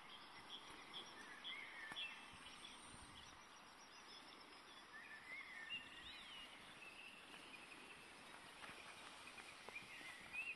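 Faint birdsong: several birds giving short chirps and warbling phrases over a steady background hiss.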